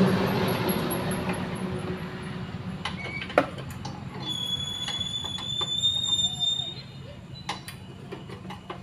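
Workshop machinery with a steady low hum, scattered sharp metallic knocks and clinks, and a thin high squeal lasting about two seconds midway. A loud hiss at the start dies away over the first two seconds.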